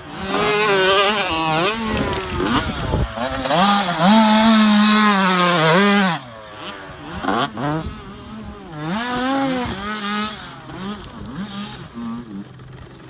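Dirt bike engine revving up and down repeatedly. It is held high for a couple of seconds, drops off suddenly about six seconds in, and then carries on in shorter, quieter revs.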